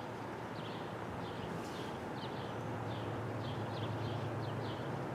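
A small bird chirping repeatedly, short high chirps about twice a second, over outdoor background noise and a low steady hum that grows slightly louder.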